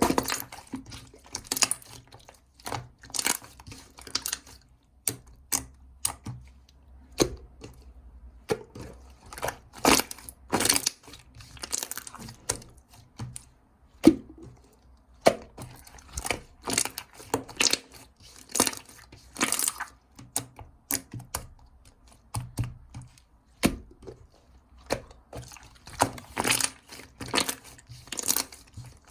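Jiggly slime being squished, poked and stretched by hand, making irregular wet clicks, pops and crackles, often in quick clusters.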